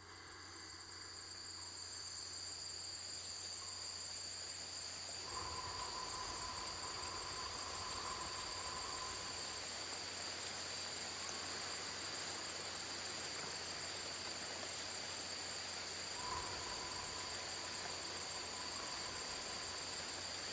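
Rainforest ambience fading in: a steady high insect drone of two held tones over a soft hiss. A lower, steady call sounds twice, for about four seconds a little way in and for about three seconds near the end.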